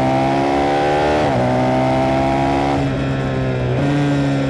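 KTM 390 Duke's single-cylinder engine heard onboard, pulling with a slowly rising pitch. It dips briefly about a second in, eases off near three seconds and picks up again a second later.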